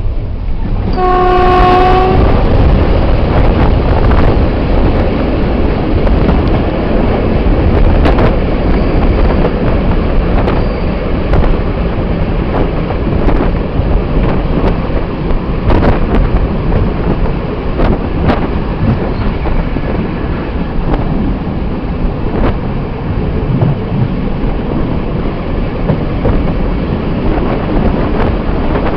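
Passenger train running at speed, heard from an open carriage window: a steady rumble of wheels on rail with scattered clicks over rail joints. About a second in, the hauling EU07 electric locomotive's horn sounds once, a single note about a second long.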